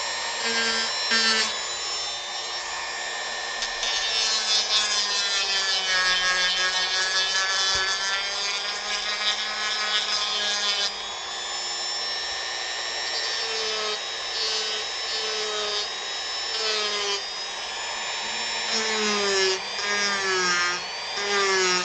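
Dremel rotary tool grinding wood. Its high whine dips and recovers in pitch as the bit bites into the carving and frees again.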